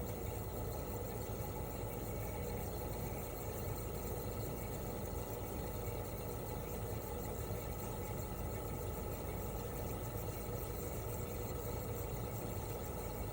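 Toshiba RAS-285BAD air-conditioner outdoor unit running steadily in cooling mode: the inverter-driven twin rotary compressor hums together with the propeller fan. It is an even hum with several constant tones and no change in level.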